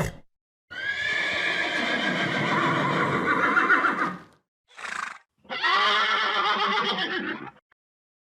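Horse whinnying: one long whinny, a short one, then another long one, each cutting off abruptly into silence.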